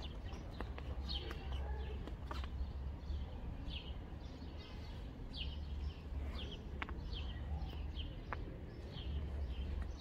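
Small birds chirping: short falling chirps, repeated every second or so, over a steady low rumble, with a few sharp clicks of footsteps on stone paving.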